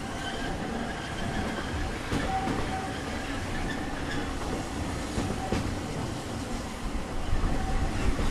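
Walt Disney World Railroad narrow-gauge steam train rolling along the track, heard from a passenger car: a steady rumble of wheels on rail with occasional faint clicks.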